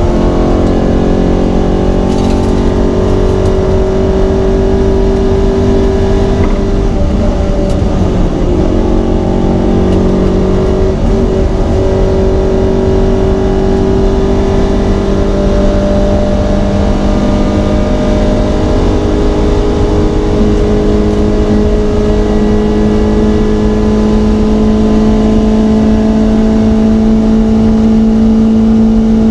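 Alfa Romeo GT Junior 1300's twin-cam four-cylinder engine running hard under racing load, heard loud from inside the cabin. Its note climbs and drops several times with throttle and gear changes, holding high near the end.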